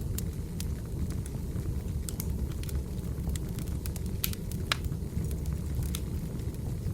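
Firewood burning in a fireplace: a steady low rumble of flames with scattered sharp crackles and pops, one louder pop about two-thirds of the way through.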